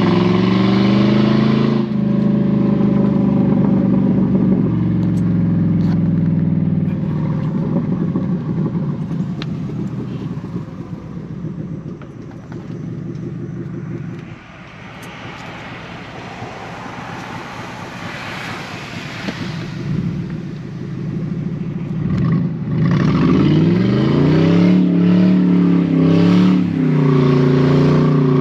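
Rear-wheel-drive V8 car's engine revving hard while the car slides on a wet road. The revs fall away and the engine quietens about halfway through, then climb steeply again and stay high near the end.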